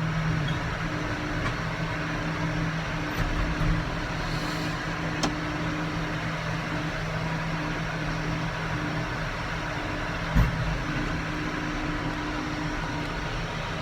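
Tractor engine running steadily while pulling a round baler through alfalfa, heard from inside the cab as a steady hum over machinery noise. A brief click comes about five seconds in and a short thump about ten seconds in.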